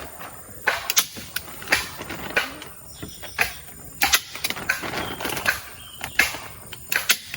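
Irregular sharp knocks and clacks, one or two a second, with rustling between them: hand work with tools or materials.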